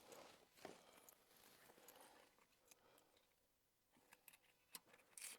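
Near silence, broken by a few faint, brief clicks.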